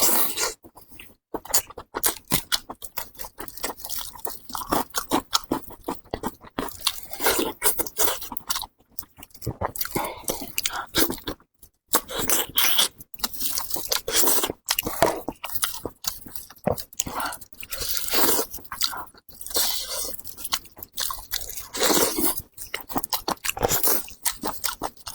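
Close-miked mouth sounds of a person eating sheep's head meat: wet chewing with frequent crunches and bites, in an irregular run of clicks and smacks.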